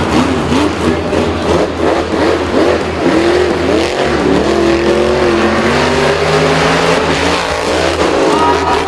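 Vehicle engine revving, its pitch gliding up and down again and again over a loud, steady background of engine noise.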